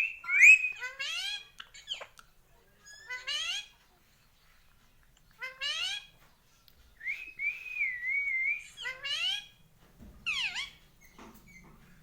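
Pet parrot calling in a series of short rising whistles, with a longer wavering whistle about seven seconds in.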